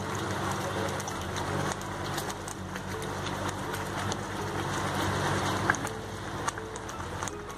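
Thick masala gravy sizzling and spluttering in a hot kadhai as cream is poured in, a steady frying hiss with occasional small pops.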